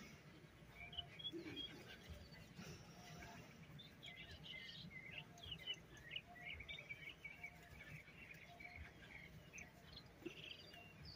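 Near silence with faint birds chirping, short scattered chirps that come thickest about halfway through.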